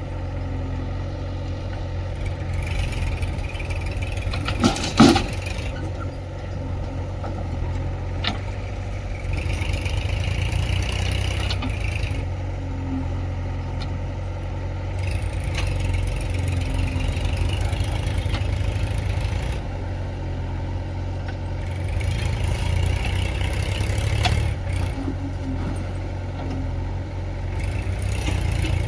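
Diesel engine of a JCB 3DX backhoe loader running steadily, rising under load in repeated working spells of a few seconds each as it digs and loads mud. A single loud metallic clank comes about five seconds in, with lighter knocks later.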